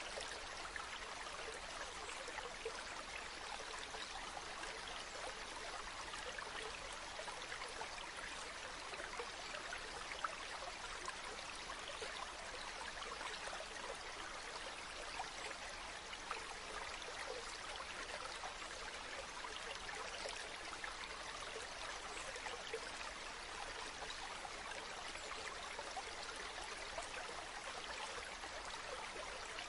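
Running water, a steady splashing rush of a stream or waterfall with small droplet splashes through it.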